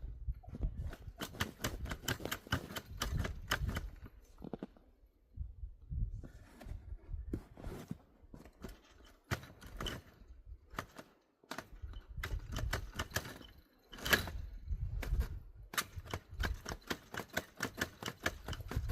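Footsteps crunching through crusted snow, a quick run of sharp crunches and squeaks with a few brief pauses.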